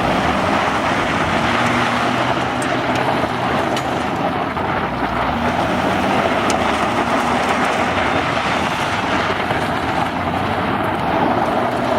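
A car driving, with a loud, steady rush of wind and road noise over the low hum of the engine.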